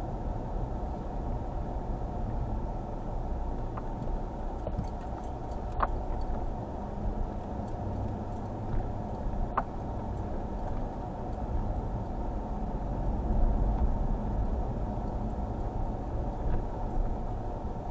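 Car engine and road noise heard from inside the cabin while driving, a steady low rumble, with a few light clicks.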